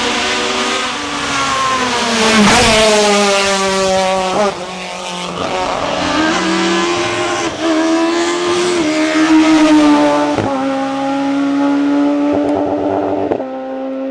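Hill climb race car engine running hard under full acceleration. Its pitch climbs and drops sharply several times as it shifts gear, and it is loudest about two and a half seconds in as it passes close.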